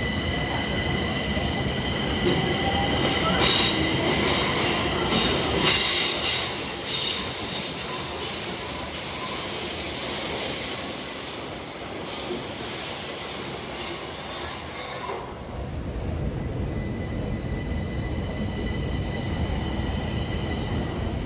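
Stockholm Metro train with its wheels squealing high and shrill, several tones at once with occasional clangs, for about fifteen seconds. The squeal then stops and gives way to a steady low rumble of the train running.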